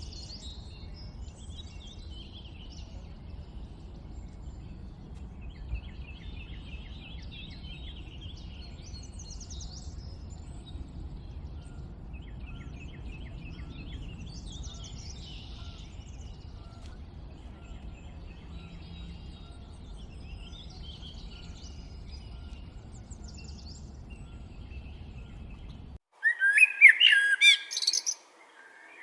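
Several birds chirping and trilling over a faint low background rumble. Near the end the sound changes abruptly to a much louder bird calling in a quick series.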